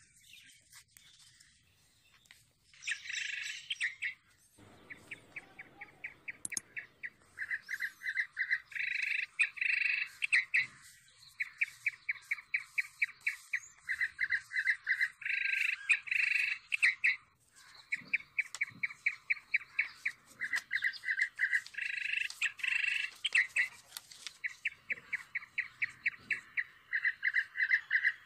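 A bird chirping in fast runs of short repeated notes, about ten a second, switching between a higher and a lower pitch, with brief pauses between runs.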